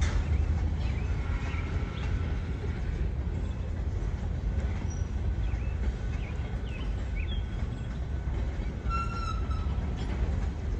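Freight train of sand cars rolling past with a steady rumble, and a brief high wheel squeal about nine seconds in.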